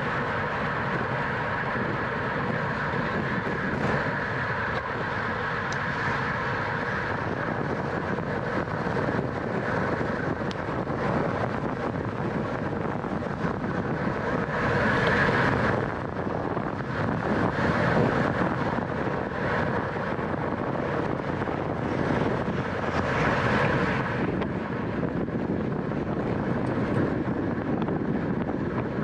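Wind rushing over a bike-mounted camera's microphone at racing speed, mixed with tyre and drivetrain noise, swelling louder a few times.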